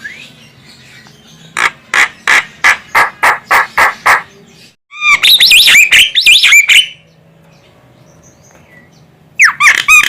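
Javan myna (jalak kebo) calling. It gives a run of about nine harsh repeated notes, then about two seconds of loud warbling whistles that bend up and down, and a short burst of notes near the end.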